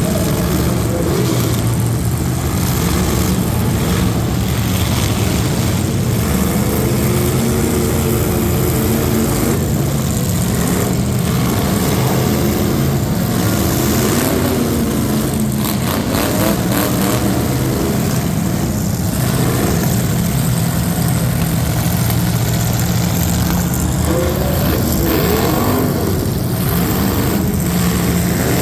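Competition truck engine running loud and hard, its pitch wavering up and down as it is revved.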